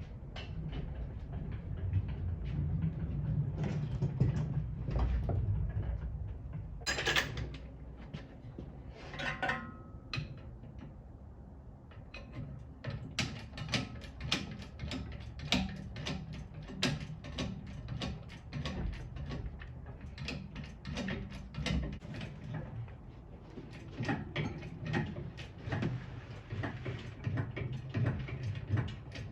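Workshop handling noises: a low rumble under a long run of sharp clicks and knocks, thickest in the second half.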